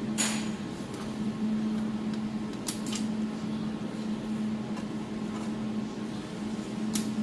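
Desktop jewelry laser welding machine running with a steady hum from its cooling system, and a few sharp clicks: one just after the start, two close together about a third of the way through, and one near the end.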